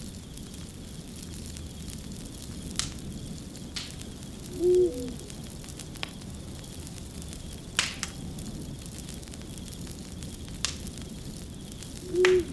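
Wood fire crackling, with a steady low rumble and a sharp pop every couple of seconds. Two short, low-pitched tonal calls are the loudest sounds, about five seconds in and again near the end.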